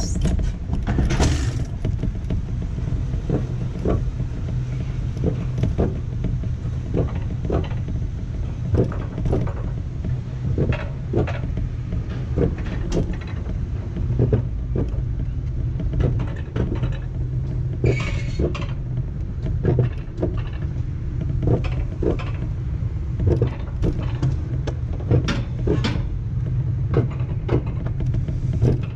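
A Wiegand alpine coaster sled running along its steel tubular track: a steady low rumble and hum from the wheels, broken by frequent sharp clicks and knocks. There are two brief hissing bursts, one about a second in and one past the middle.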